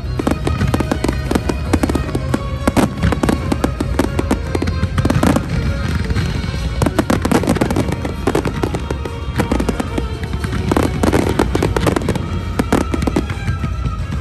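Fireworks display in full barrage: a rapid, unbroken run of overlapping bangs and crackles from aerial shells, with music playing underneath.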